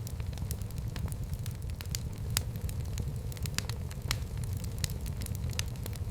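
Fire in a fireplace crackling and popping: irregular sharp snaps, several a second, over a steady low rumble of the flames.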